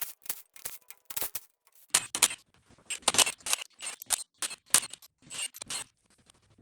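Ratchet wrench with a 5/8-inch socket being swung back and forth to unscrew the rocker arm studs on an LT1 small-block Chevy cylinder head: repeated short bursts of ratchet clicking with some metal scraping, dying away near the end.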